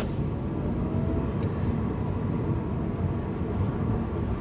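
Car driving along a rough road, heard from inside the cabin as a steady low rumble of tyre and engine noise, with a single sharp click at the very start.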